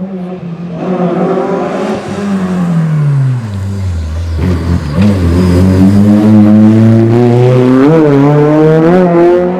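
Small-capacity slalom prototype race car engine at full tilt: the revs drop away over a couple of seconds as it slows, then it accelerates hard again, the engine note climbing with a brief dip near the end as it changes gear.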